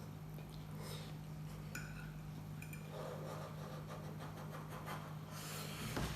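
Faint clinks of a fork against a plate while eating spaghetti, a few light taps, over a steady low hum.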